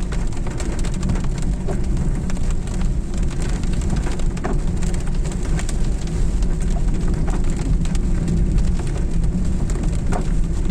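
Steady rain, with a low rumble underneath and occasional single drops tapping out sharply.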